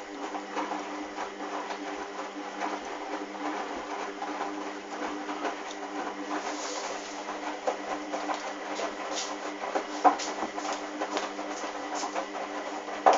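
Hoover washing machine running through a towel wash: a steady motor hum with irregular clicks and knocks from the drum and wet load, with one sharper knock about ten seconds in.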